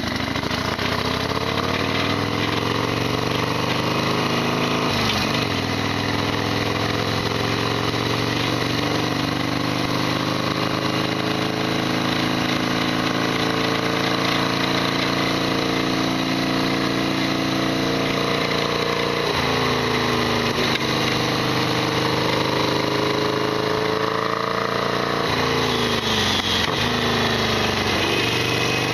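Harley-Davidson Sportster XL1200R's air-cooled V-twin engine running under way. The pitch dips and picks up again about five seconds in, around twenty seconds and again near the end, over a loud rattly clatter that the owner calls noisy as ever.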